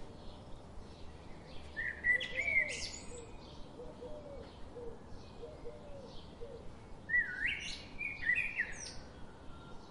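Birds chirping, with faint short calls throughout and two louder phrases of quick gliding chirps, about two seconds in and again about seven seconds in.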